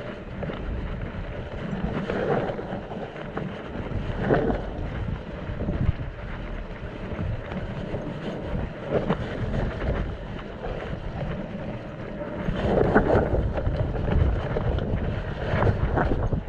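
Mountain bike descending a wet, muddy trail. Wind buffets the microphone, and the tyres and the rattling bike are heard over the rough ground, with louder jolts a few times.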